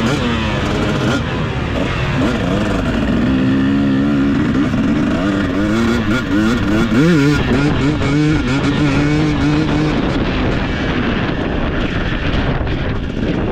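Husqvarna TC250 motocross bike engine revving hard, its pitch climbing and dropping again and again as the throttle opens and shuts through the gears, with a sharp rev about halfway.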